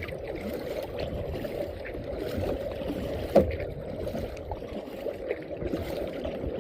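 Kayak paddling on a river: water splashing and gurgling with the paddle strokes, with a single sharp knock a little past halfway.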